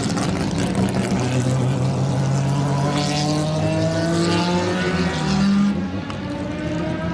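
Historic Formula 1 race car engine accelerating, its pitch climbing steadily for several seconds, then dropping with a dip in level about six seconds in.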